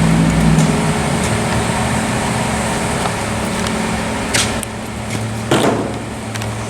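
Steady mechanical hum with an even hiss, with two brief noisy bursts about four and a half and five and a half seconds in.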